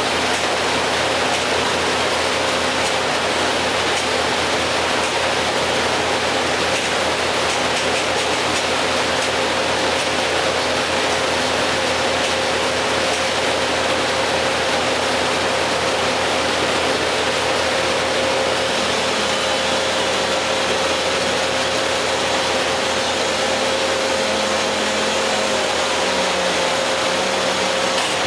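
Steady engine drone from tree-work machinery, with a constant hum over an even noise.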